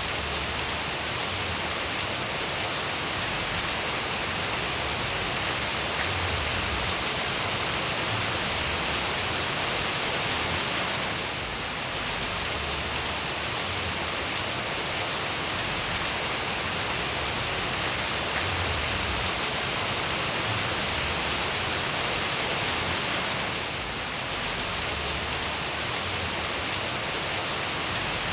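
Steady rainfall, an even hiss of drops falling on surfaces, dipping slightly in level twice.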